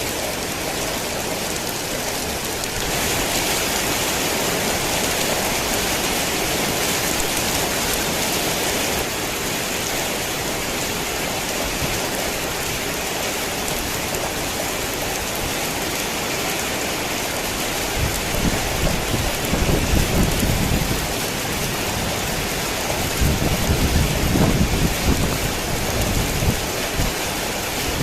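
Heavy rain falling steadily. In the second half, two low rumbles of thunder roll in, each lasting a few seconds.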